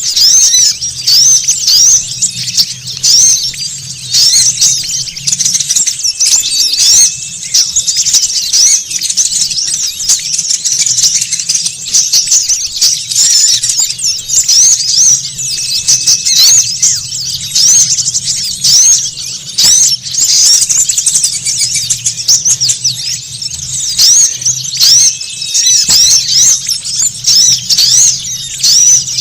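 A dense, noisy flock of small songbirds chirping and calling over one another, a rapid unbroken stream of high, squeaky notes with no pauses, as used in a lure recording for small wild birds.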